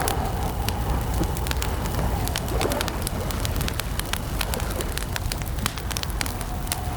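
Wood campfire crackling: many irregular sharp pops and snaps over a steady low rumble of the burning fire.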